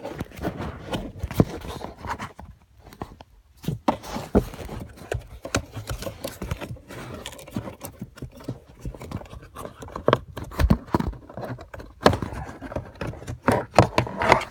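Hard plastic interior parts behind a car's glove box being worked loose by hand: irregular clicks, knocks and scraping as the tabs give and the part comes off.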